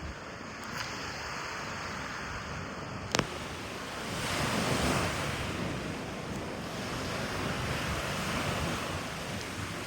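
Surf washing onto a beach in the wind ahead of an approaching typhoon, with wind buffeting the microphone. A wave swells and washes in about four to five seconds in, and a single sharp click sounds a little after three seconds.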